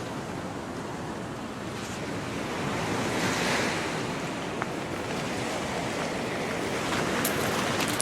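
Gulf surf washing onto the beach, a wave breaking and hissing about three seconds in, with wind buffeting the microphone.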